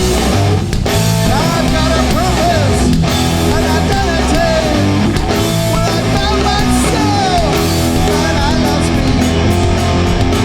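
Live hardcore punk band playing loud distorted electric guitar, bass and drums, with some gliding vocal or guitar lines over the top.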